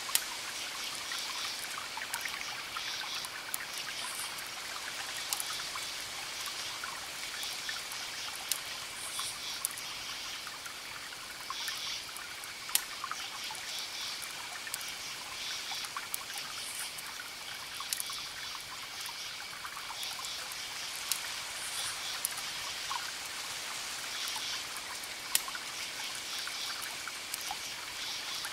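Wood fire crackling, with sharp pops scattered through a steady hiss. A high, rapidly pulsing chirp comes and goes in short bursts throughout.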